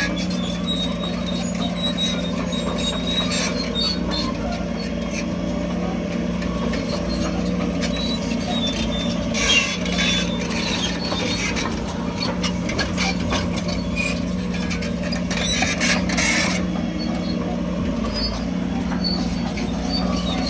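Diesel engine of heavy earthmoving machinery running steadily, with high-pitched squeaking and metallic clatter about halfway through and again about three-quarters of the way in.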